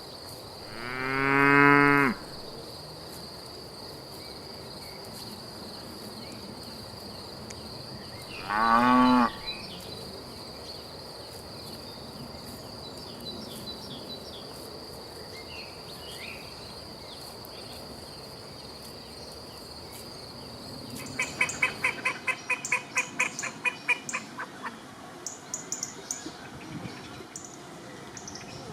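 Holstein cattle mooing: one long low moo that swells in volume about a second in, and a shorter, higher moo about eight seconds later, over the steady high chirring of crickets. Near the end the crickets stop and ducks quack in a rapid run of about five calls a second, then in scattered calls.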